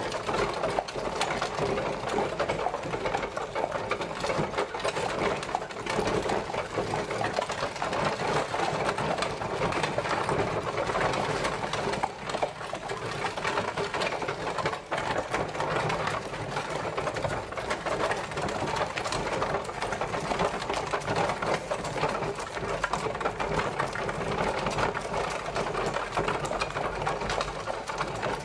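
Horse-drawn carriage on the move: a steady, dense rattling clatter from the carriage as it rolls along.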